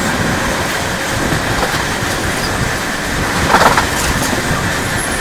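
Double-decker AC chair-car passenger train running along the track at speed, a steady rumble of wheels on rails heard from inside the lower-deck coach, with a brief louder burst of noise about three and a half seconds in.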